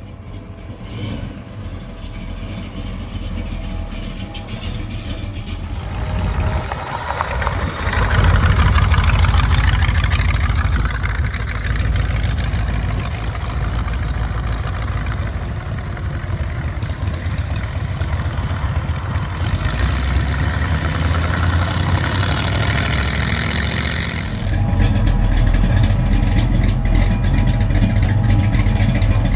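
Car engines running, idling with some revving, growing louder about a quarter of the way in and again near the end.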